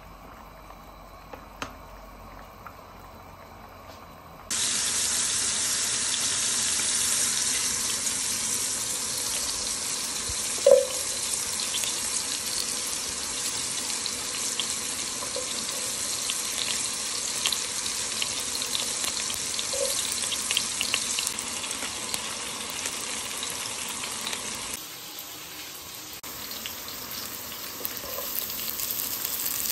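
Sliced onions sizzling in hot oil in a frying pan: a steady hiss with scattered crackles and an occasional knock. It starts suddenly after a few quieter seconds of spaghetti being stirred in a pot of boiling water, and drops lower near the end as shredded cabbage goes into the pan.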